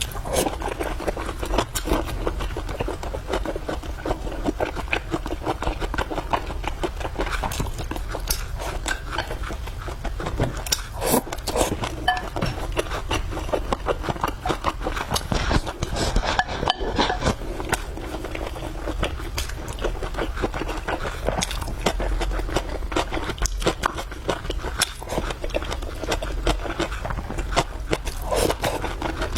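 Close-miked eating sounds: chewing and biting food in a dense, steady run of small clicks and crackles, with some scraping.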